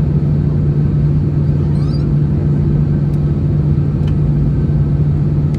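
Steady cabin rumble of an Airbus A321-211 on the ground after landing, with a constant low hum over it, heard from a window seat inside the cabin. A few faint clicks sound over it.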